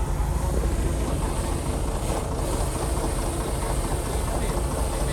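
Heavy diesel earthmoving machinery running steadily with a low rumble.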